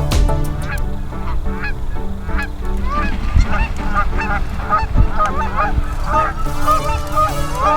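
A flock of geese honking, many short calls overlapping and growing denser after about five seconds, over a steady low background.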